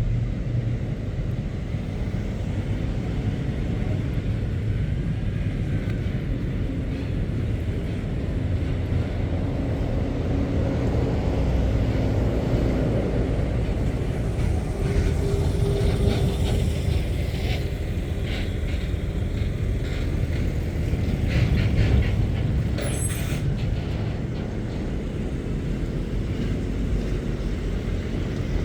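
Heavy goods lorries running and moving past with a steady low engine rumble. A few short sharp clicks and hisses come partway through.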